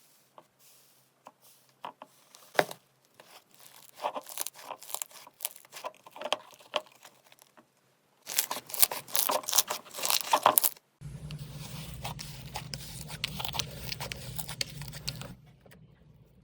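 Slime being squished and pressed, giving crisp crackles and clicking pops in bunches, densest about eight to eleven seconds in. After a brief silence a new stretch starts with a steady low hum under the crackling.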